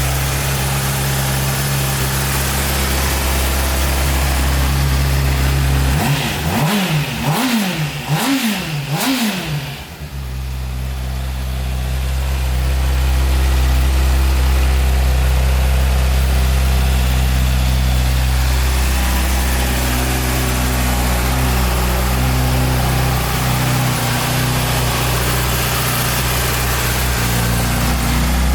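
2009 Honda CBR600RR's inline-four engine idling steadily, blipped three times in quick succession about six to nine seconds in, each rev rising and falling in pitch before it settles back to idle.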